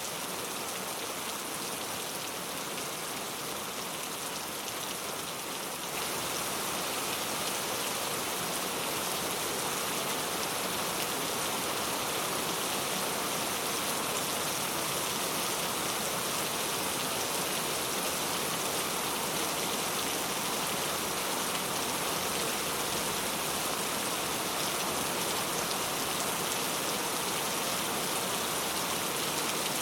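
Rain falling steadily in a dense, even hiss, a little louder from about six seconds in.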